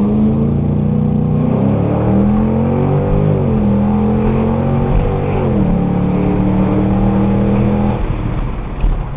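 A 2005 Mustang GT's 4.6-litre V8 through a Borla cat-back exhaust, heard from inside the cabin under hard acceleration. The engine note drops at three upshifts, about a second and a half, three and a half and five and a half seconds in, holding and climbing between them. It eases off about eight seconds in as the throttle lifts.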